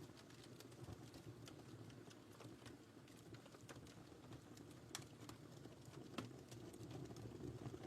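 Wood fire burning in a fireplace: a low steady rush of flames with irregular crackles and small pops from the burning logs, two sharper pops about five and six seconds in.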